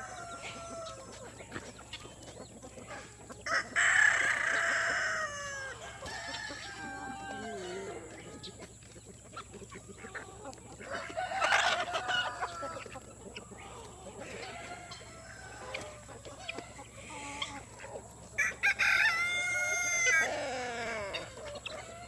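Chickens clucking, with louder calls and crows breaking out about four, twelve and nineteen seconds in; the last is a long crow of over a second.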